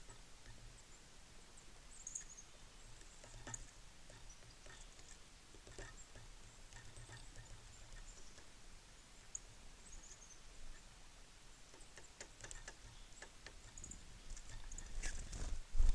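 Small songbirds at a feeder giving short high chirps and brief falling calls, with scattered light clicks. Near the end there is a loud low thump.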